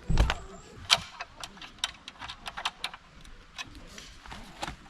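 Camping gear being unpacked and handled: a thump at the start, then an irregular run of sharp clicks and light clatter of hard parts knocking together.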